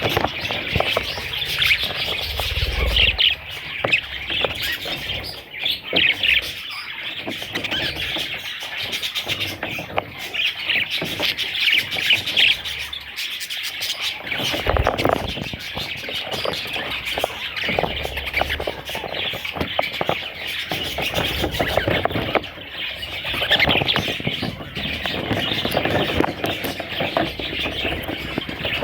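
Budgie chicks chirping continuously, many short high calls overlapping.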